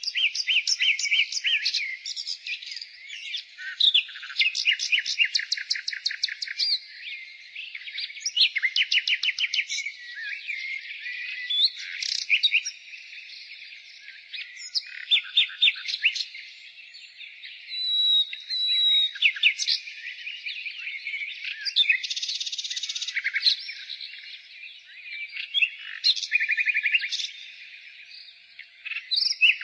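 Nightingale singing a varied song: rapid trills of repeated notes, whistles and chirps in phrase after phrase, with short pauses between them.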